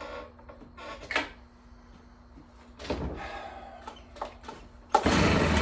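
Stihl BR340 leaf blower being pull-started: a couple of short recoil-starter pulls, then about five seconds in the engine catches and keeps running loudly. It is the first time it fires after refusing to start despite having spark and fuel.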